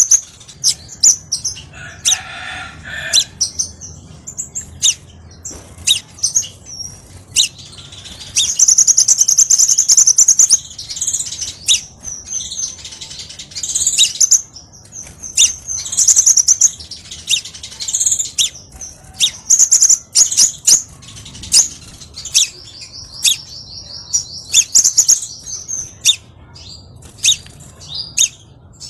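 Crimson sunbird singing: a loud run of sharp, high chirps and clicks, broken by fast rapid trills, one about a third of the way in and another near the end.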